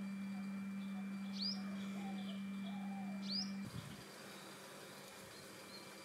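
Wild birds calling in a tree canopy: two sharp, rising chirps about two seconds apart, with fainter wavering calls between them. A low steady hum underneath stops suddenly about two-thirds of the way in, leaving a quieter background with soft, repeated chirps.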